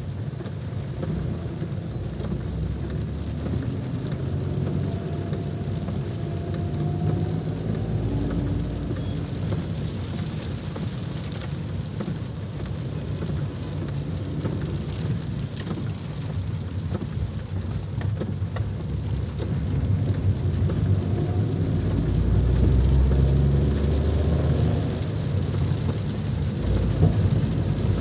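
Steady rain, with a low background rumble like road traffic. A louder low rumble swells about 22 seconds in and fades a few seconds later.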